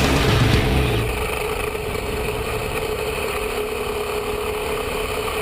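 KTM 530 EXC-R's single-cylinder four-stroke engine idling steadily. The sound settles to an even idle about a second in.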